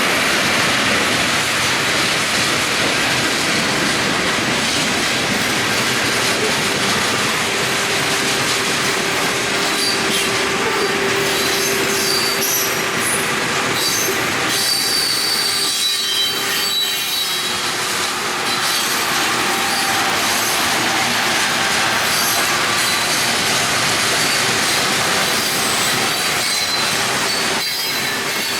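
Freight train cars rolling past at close range: a steady rumble of steel wheels on rail, with faint squealing tones from the wheels coming and going in the middle and again near the end.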